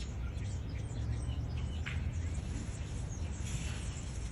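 Quiet outdoor background: faint bird chirps over a low, steady hum.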